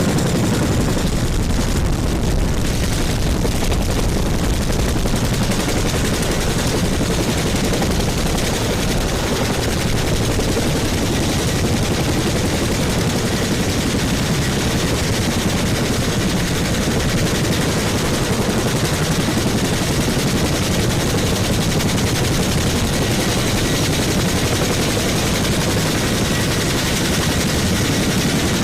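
Helicopter running close by: a loud, steady rotor chop with engine noise that holds even throughout.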